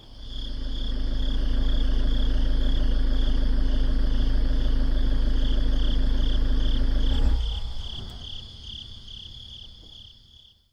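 Crickets chirping in an even, pulsing rhythm, together with a car engine's low rumble. The engine stops sharply about seven seconds in, and the chirping carries on and fades away.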